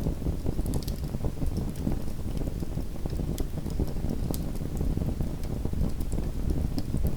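Small wood fire burning in a fireplace and crackling: a steady low noise of the flames with frequent sharp pops and crackles scattered throughout.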